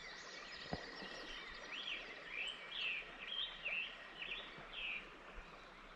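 A songbird singing a run of short slurred notes, about eight in three seconds, over faint steady outdoor background noise with a thin high tone.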